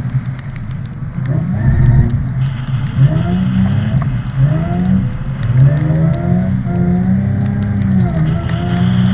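Car engine revving up and down over and over, about once a second, as a car is driven hard around a skid pan.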